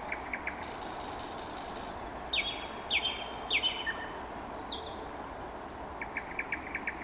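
Nightingale singing in phrases: a burst of rapid clicks, a buzzy rattle, three repeated slurred whistles about half a second apart, higher notes, then rapid clicking again near the end, over a steady outdoor background hiss.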